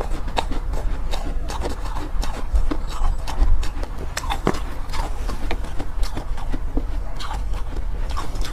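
Close-miked crunching and chewing of soft, powdery ice, an irregular run of crisp crackles several times a second over a low rumble.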